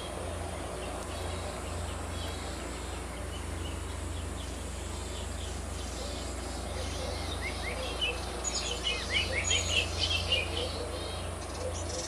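Yuhina chicks chirping at the nest: faint scattered chirps at first, then a quick run of high, sharp chirps in the second half, over a steady low hum.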